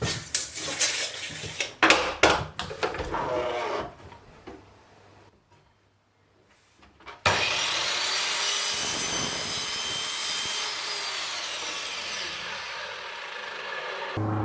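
Knocks and scraping from timber being handled, then, after a short gap, an electric saw cutting through a wooden board for about seven seconds, its whine dipping and rising again as it cuts.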